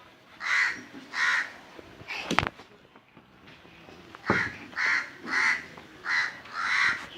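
A bird cawing repeatedly: two caws, then after a pause five more in quick succession. A single sharp knock falls in the pause.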